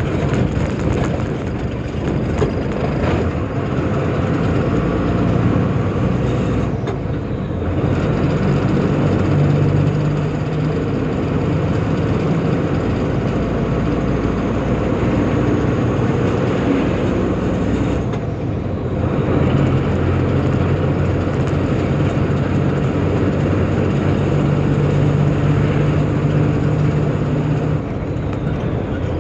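Tata truck's diesel engine running and road noise while the truck is driving, steady and loud, with two brief dips in the sound about seven and nineteen seconds in.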